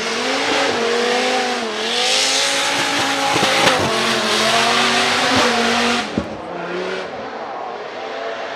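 Drift car's engine revving up and down while its tyres squeal and shred, with a few sharp cracks along the way; the tyre noise drops away about six seconds in, leaving the engine running lower.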